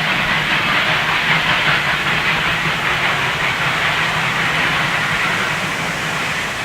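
Steam-hauled train running, double-headed by R class steam locomotives: a steady, loud rush of steam and rail noise that begins to fade near the end.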